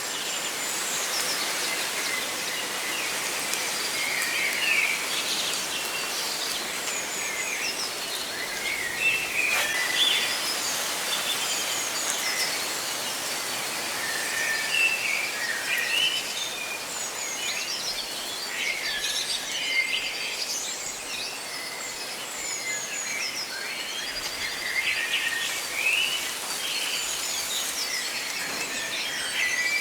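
Many small birds chirping and trilling over a steady rustle of leaves in the wind.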